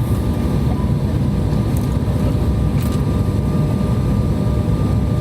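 Steady rumble of jet airliner cabin noise, engines and airflow, with a faint thin steady whine above it.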